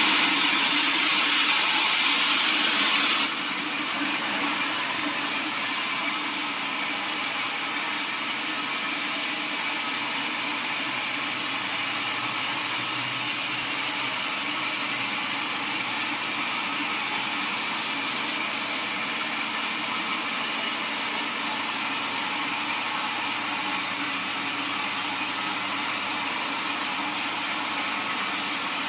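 Sawmill saw running through mahogany: a loud, hissing cutting noise for about the first three seconds, then a sudden drop to a steadier, quieter machine running sound.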